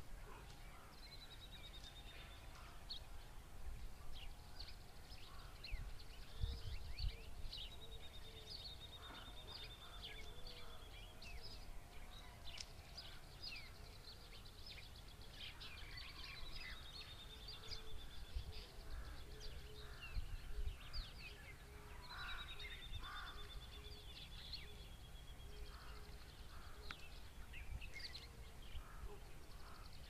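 Common babbler and other birds calling: a high, slightly falling trill comes four times, each lasting two to three seconds. Around the trills are many short chirps and some lower repeated notes, over a low rumble.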